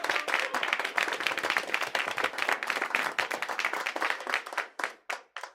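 A group of people applauding, the dense clapping thinning out to a few last claps near the end.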